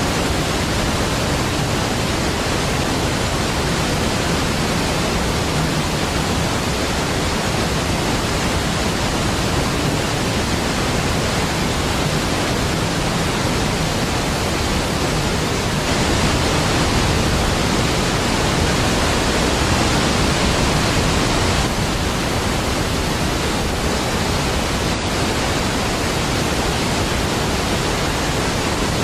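Large waterfall: a steady, dense rush of falling water with no breaks, swelling slightly louder for a few seconds past the middle.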